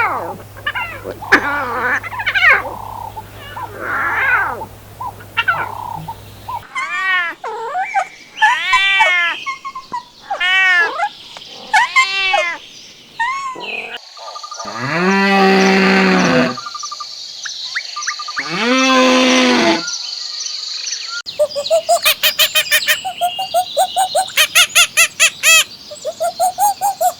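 A string of different animal calls cut one after another: a run of short, arching calls repeated about once a second, then two long calls of about two seconds each, and fast, pulsing calls near the end.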